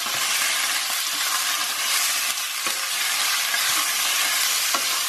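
Chicken pieces and dry ground spices frying in hot oil in a non-stick wok, a steady sizzle, while a spatula stirs them, with a couple of short knocks of the spatula against the pan.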